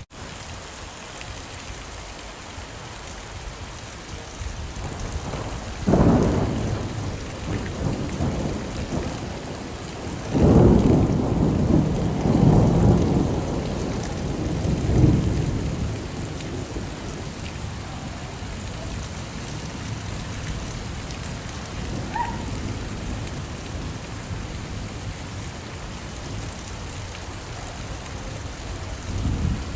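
Steady rain falling, with thunder rolling in: a sharp clap about six seconds in, then a longer rumble that rolls on for several seconds, and a lighter rumble near the end.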